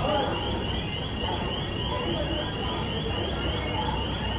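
A rapid electronic beeper chirping over and over, about five short rising chirps a second, over a steady background hum and faint voices; it stops near the end.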